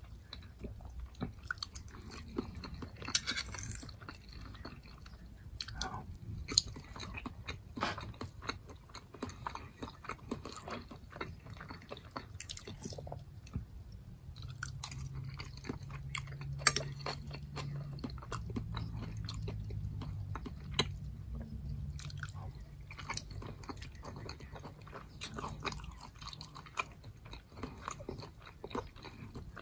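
Close-miked chewing of soft food (ground turkey, potatoes and squash), with a metal fork clicking and scraping on a ceramic plate as bites are scooped up; the sharpest click comes about two-thirds of the way through.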